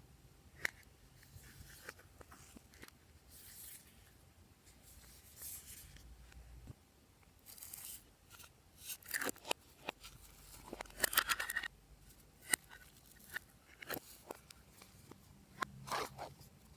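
Slime being mixed and squeezed by hand, giving irregular crackles, clicks and squishing rustles, busiest around the middle.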